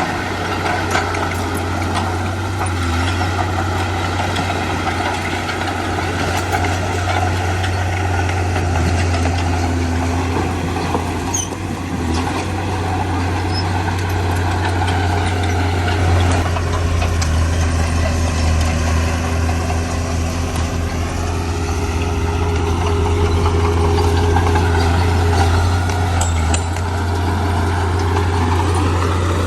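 Diesel engine of heavy earthmoving machinery running steadily, its pitch drifting up and down and climbing near the end.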